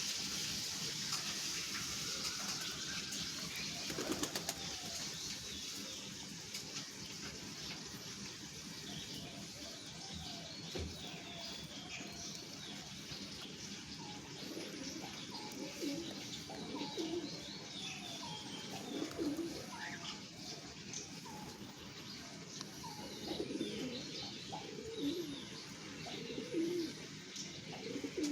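A group of birds calling: many short high chirps throughout, with short low calls that become frequent in the second half, and occasional flutters.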